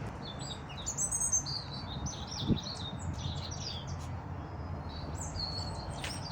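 Small birds chirping and tweeting in quick, high-pitched notes, many overlapping calls throughout, over a steady low background noise, with a soft thump about two and a half seconds in.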